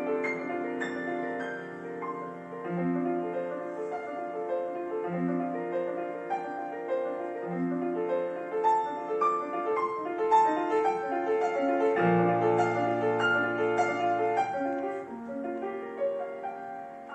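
Solo piano playing a classical piece: quick runs of notes over held lower notes, with a deep bass note sounding from about twelve seconds in. It grows softer near the end.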